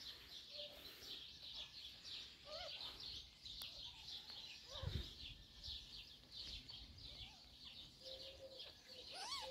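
Faint, steady chirping of small birds in the background, many quick high chirps a second. A few short rising-and-falling squeaks come through, and there is a low bump about five seconds in.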